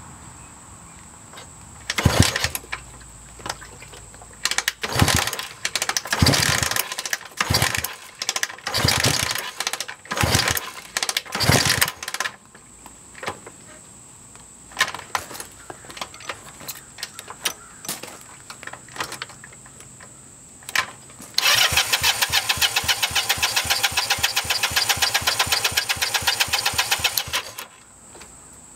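Honda CB160's parallel-twin engine being turned over repeatedly without starting: a string of about eight short cranking bursts, then about six seconds of steady, evenly pulsed cranking that stops suddenly near the end. The plug is sparking, so the owner suspects a fuel delivery fault.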